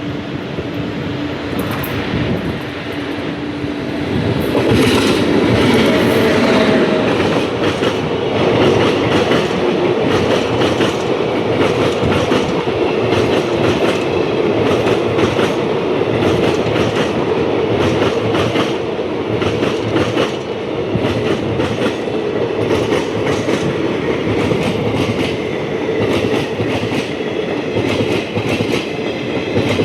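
A train running past on the track, its wheels clattering rhythmically over the rail joints; it grows louder about four seconds in and stays loud.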